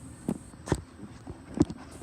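Three dull thumps a few tenths of a second to half a second apart: a handheld camera being bumped and handled.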